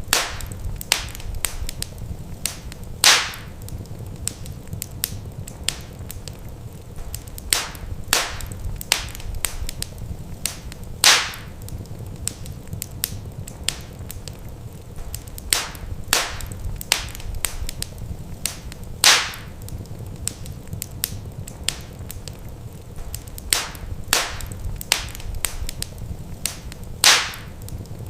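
Wood fire crackling in a fireplace: a steady stream of small snaps and pops over a low rumble of flame. A louder pop comes about every eight seconds.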